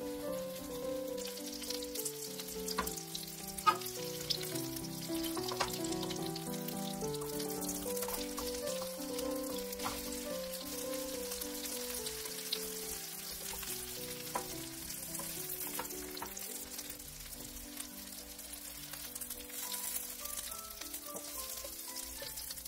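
Oil sizzling in a frying pan as egg-dipped skewers of dureup (Japanese angelica-tree shoots) and beef fry, with a few sharp taps, the loudest about four seconds in. Background music with a melody plays over it.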